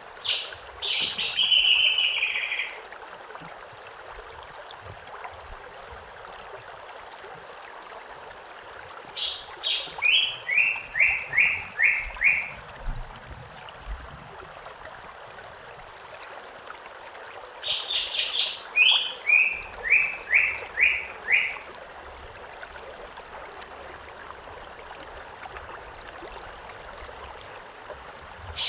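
Stream flowing steadily, with a songbird singing three phrases about eight seconds apart, each a few high notes followed by a quick run of short notes stepping lower.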